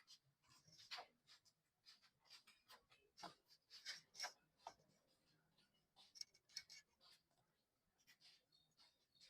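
Faint, irregular clicks and scraping, like small hard objects being handled and rubbed against a surface.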